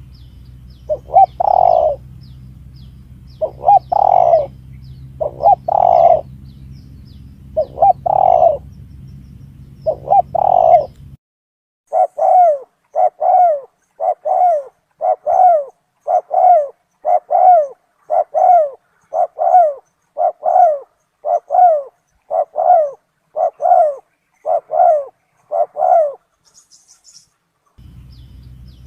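Spotted dove (tekukur) cooing, a recording used as a lure call. At first the coos come in pairs over a low steady hum, with faint high chirps above. Then, with the hum gone, a long even run of single coos about one a second follows, stopping briefly before the hum and coos return near the end.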